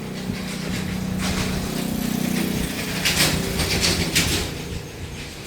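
A motor running with a steady hum, joined about three to four seconds in by a few short bursts of hissing noise.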